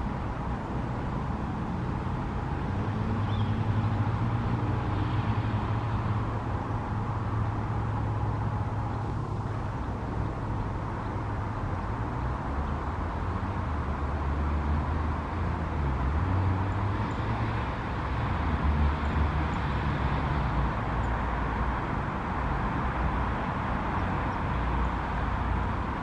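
Steady rumble of road traffic, with the low engine hum of vehicles passing and fading in turn.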